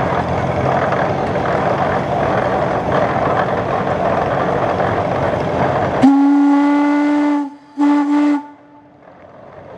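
A steady noisy din cuts off after about six seconds. Then a steam traction engine's whistle blows one long blast and one short blast.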